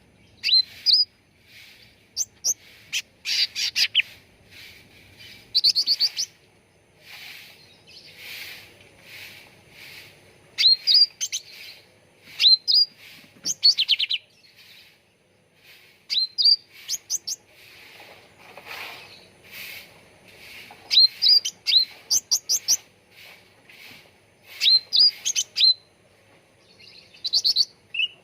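Cucak ranting bird singing: short loud phrases of quick rising chirps, repeated every couple of seconds, with softer chattering between them.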